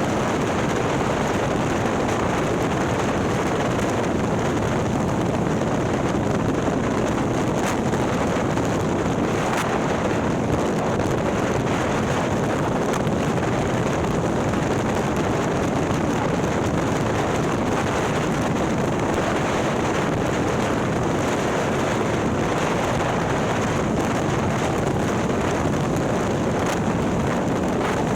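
Heavy, steady wind rush on the microphone of a motorcycle at cruising speed. Under it runs a Harley-Davidson 130ci Milwaukee-Eight V-twin with a ThunderHeader exhaust.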